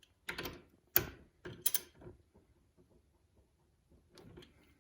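Sharp metallic clicks of a wrench on a dirt bike fork's rebound adjuster as it is tightened onto the push rod, about four in the first two seconds, then quiet.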